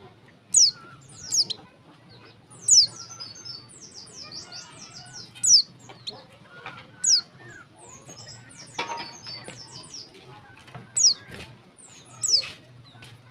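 Female white-eye (pleci) calling: short, high, downward-sweeping chirps every second or two, with softer twittering between them. This is a female's call to draw a male into song.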